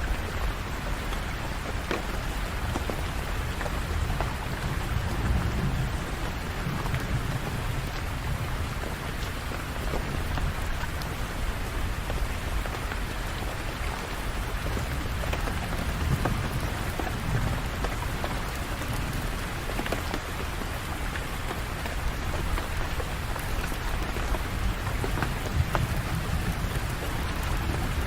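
Steady rain falling and pattering on surfaces, with a low rumble swelling twice.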